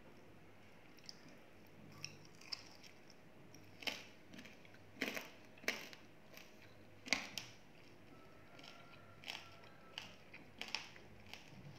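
Someone chewing crispy deep-fried pork belly: faint, irregular crunches every second or so, loudest in the middle.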